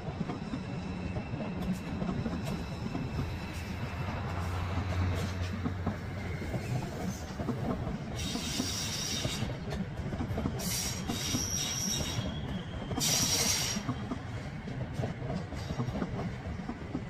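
Passenger train running on curved track: a steady rumble of wheels on rails, with high-pitched wheel squeal coming in bursts around eight to ten seconds in and again around thirteen seconds in, the flanges squealing against the rails on the curve.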